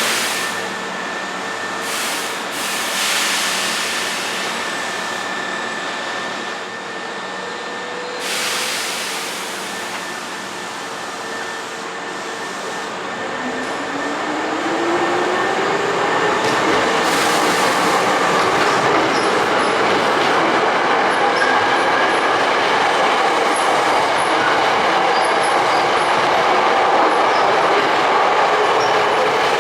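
Hankyu Kyoto Line resistor-controlled electric train running. From about halfway its traction motor whine rises steadily in pitch and gets louder as the train gathers speed.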